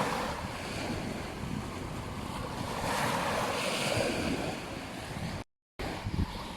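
Ocean surf washing onto a beach, with wind buffeting the microphone; a wave's rush swells about halfway through. The sound cuts out completely for a moment near the end.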